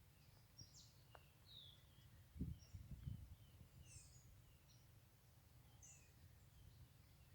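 Faint forest birdsong: several birds giving short chirps and quick little sweeping notes, scattered throughout. A couple of low thumps come about two and a half and three seconds in.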